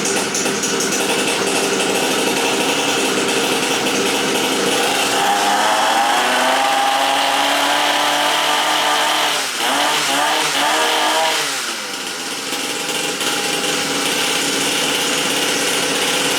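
Small two-stroke dirt bike engine running just after starting right up from sitting a while. It revs up and is held high around the middle, gets a few quick throttle blips, then settles back to a lower idle.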